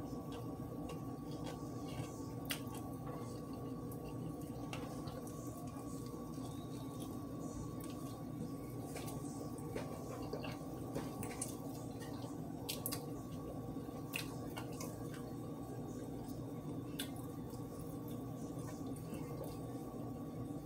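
Close-up mouth sounds of a person chewing a fried chicken sandwich: wet, squishy chewing with scattered sharp smacks and clicks, over a steady background hum.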